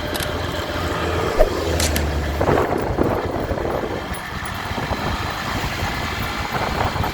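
Motorcycle engine running on the move, with a steady low hum under continuous road and wind noise.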